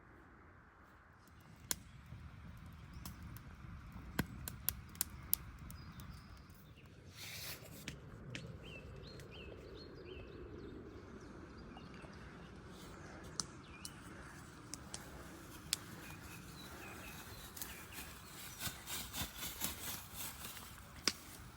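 Faint forest ambience: a steady low rumble, scattered clicks and rustles, and a few short bird chirps about nine seconds in.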